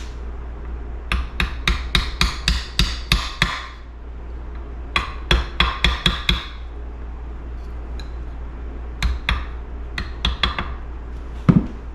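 Small hammer tapping on metal in three quick runs of several light taps each, with a couple more near the end, driving the key into the keyway slot on the crankshaft end of a Honda CR125 two-stroke engine.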